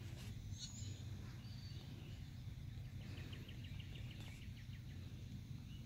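Faint outdoor ambience with a steady low rumble, and a small bird singing a rapid series of high chirps for about a second and a half about halfway through.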